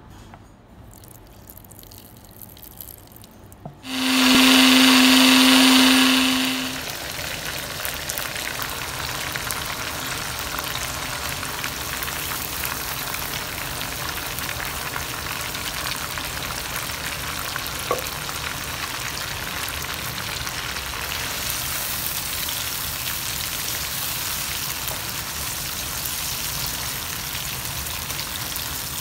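Electric blender motor runs loud and steady for under three seconds, about four seconds in, grinding cilantro, mint and green chillies into a paste. Then chicken pieces and green herb paste sizzle steadily in hot oil in a karahi.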